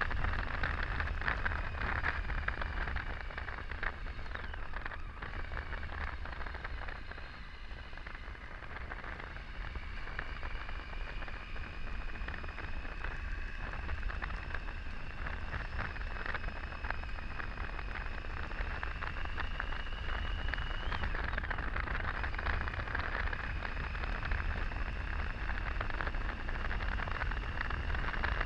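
Wind rushing over the microphone on a Triumph Tiger 800 ridden at road speed, its three-cylinder engine running underneath as a steady low rumble. A faint high whine drifts slightly in pitch throughout.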